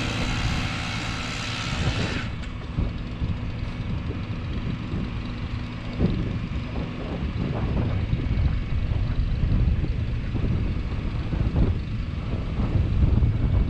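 An engine runs with a loud hiss for about two seconds, then the hiss cuts off suddenly. After that, wind buffets the microphone with a low, gusting rumble.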